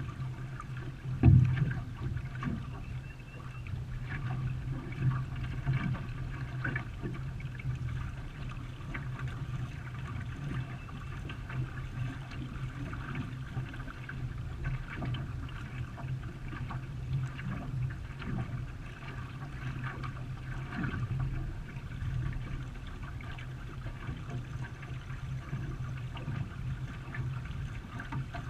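Water splashing and trickling around a racing canoe as it is paddled, over a steady low hum, with one sharp knock about a second in.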